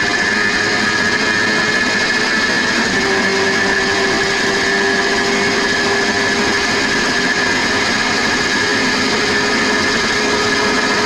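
Motorcycle engine running at a steady high speed: a constant-pitch whine over a loud rush of noise that holds without revving up or down.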